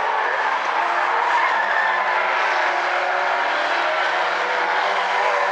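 Several race car engines running at racing speed together, their tones overlapping at different pitches and slowly shifting, over a steady hiss of noise.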